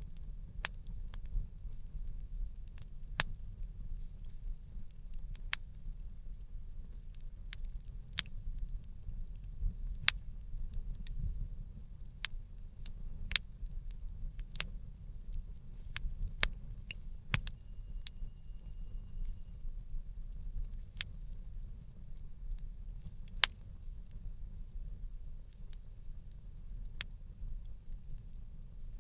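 Wood campfire crackling: irregular sharp pops and snaps over a steady low rumble, with a few louder pops.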